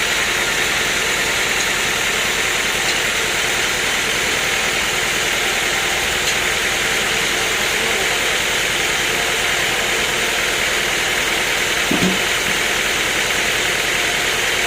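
Steady running noise of sawmill machinery, with one short knock about twelve seconds in.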